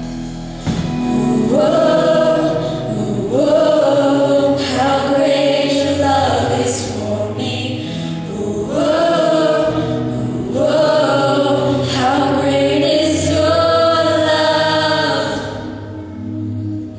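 A choir singing the closing phrases of a song in a run of long swelling lines that stop about fifteen seconds in, then die away.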